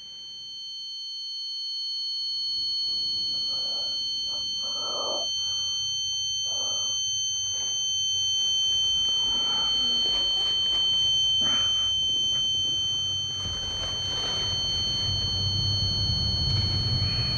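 A steady high-pitched ringing tone, held without a break, over muffled noises and a low rumble that grows louder in the last few seconds.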